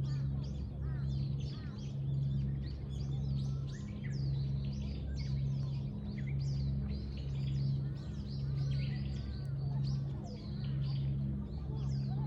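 Many small birds chirping and calling, with short rapid notes and swooping whistles throughout. Beneath them runs a low steady hum that swells and fades about once a second.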